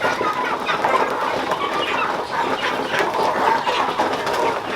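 A flock of chickens clucking, a steady overlapping chatter of many short calls.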